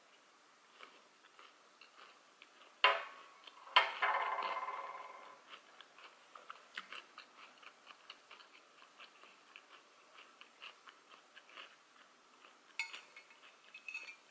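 Sushi being chewed with soft, wet mouth sounds and small ticks. About three and four seconds in come two sharp clinks of tableware, the second ringing out for over a second. Near the end, metal chopsticks clatter against the plate.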